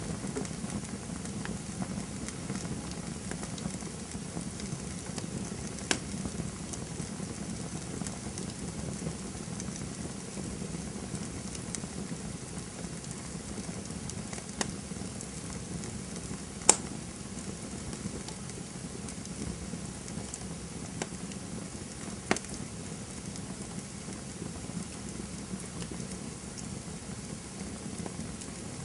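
Campfire crackling: a steady low hiss and rumble with a few sharp pops, the loudest about two-thirds of the way through.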